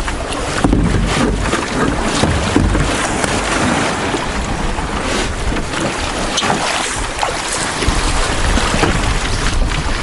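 Strong wind buffeting the microphone, with choppy lake water splashing and slapping throughout.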